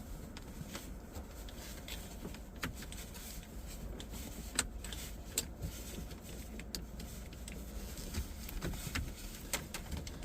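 Scattered light clicks and taps, a dozen or so at uneven intervals, over a low steady rumble, with no engine running.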